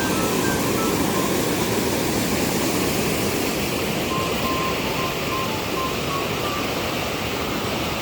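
Steady rush of a waterfall, with faint background music of short high notes over it, most of them in the first second and again around the middle.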